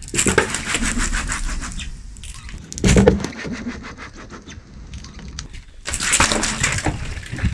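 Car tyre rolling over and crushing objects: crackling and crunching in three bursts, a long one at the start, a short sharp crack about three seconds in, and another crunch about six seconds in.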